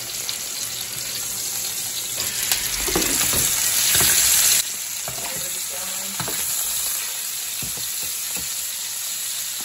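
Seasoned chicken breasts sizzling in hot oil in a grill pan, with light clicks of metal tongs as the pieces are turned. The sizzle is louder from about two seconds in and drops suddenly about four and a half seconds in.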